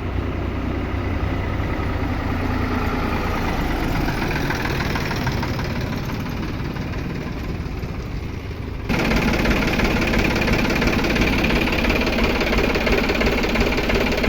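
Tractor's diesel engine running steadily, turning abruptly louder about nine seconds in.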